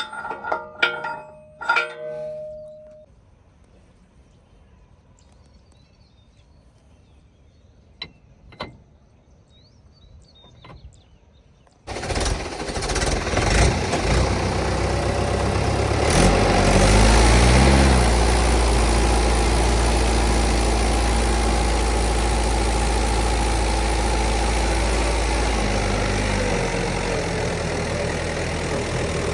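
A few metallic clinks, then a quiet stretch with a couple of clicks. About twelve seconds in, a diesel tractor engine comes in suddenly, revs up with rising pitch over several seconds and then runs on steadily.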